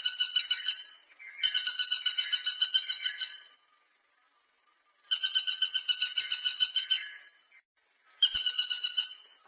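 Woodpecker calling: a rapid series of repeated notes, about seven a second, given in bursts of about two seconds with short pauses between them, about three and a half bursts in all.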